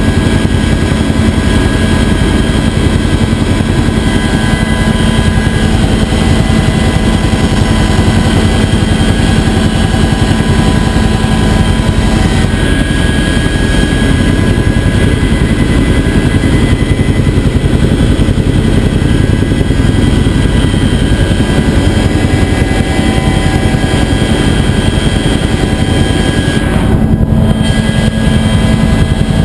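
Bell UH-1 Huey helicopter running steadily and loud, a dense low rotor and engine din with steady whining tones over it.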